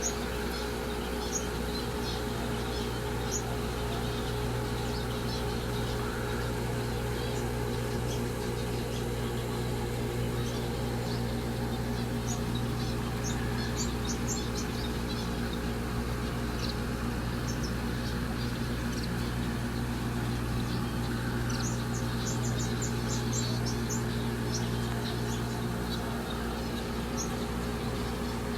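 Small birds chirping in short, high calls that come in scattered bits and two busier spells, over a steady low mechanical hum.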